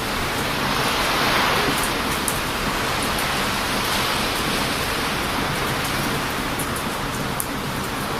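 Heavy surf breaking on a beach in strong wind, a steady loud wash of noise with a wave swelling up about a second in. A wood campfire adds a few faint, sparse crackles.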